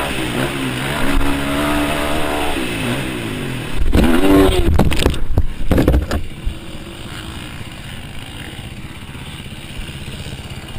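Motorcycle engine running, its pitch rising and falling as it revs, then a louder, rough stretch of clattering and scraping about four seconds in that lasts about two seconds, followed by quieter steady noise.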